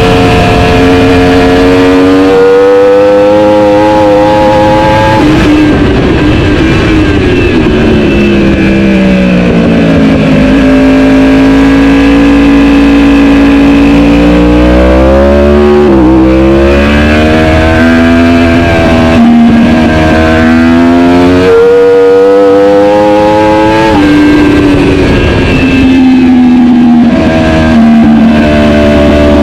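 Racing superbike engine at high revs, its pitch climbing in steps through upshifts and falling away under braking and downshifts. Hard acceleration and deceleration alternate several times.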